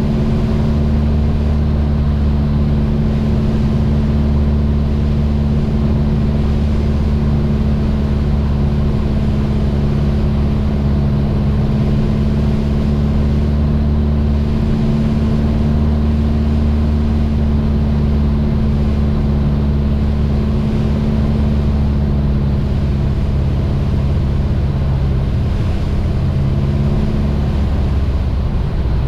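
Steady drone of a Mooney M20J's four-cylinder Lycoming engine and propeller in flight, its pitch sagging slightly near the end.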